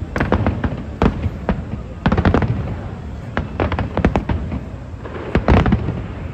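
Fireworks bursting in rapid clusters of sharp bangs, about six volleys over a steady low rumble.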